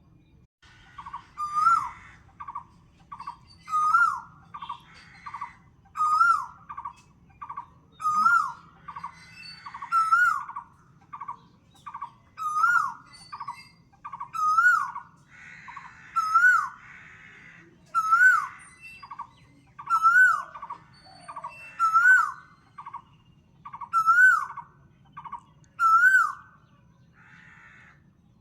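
Birdsong: one bird repeats the same phrase about every two seconds, a quick run of short notes ending in an upswept note, while thin high chirps sound with each phrase.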